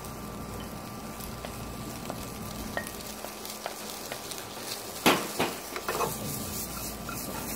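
Chopped onion, carrot and bacon sizzling steadily in a frying pan. About five seconds in, a wooden spatula stirring them knocks and scrapes against the pan a few times.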